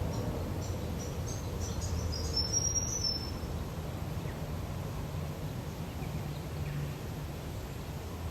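A small bird's high, thin chirps, repeated several times over the first three seconds and ending in a short rising note, over steady low outdoor lake ambience.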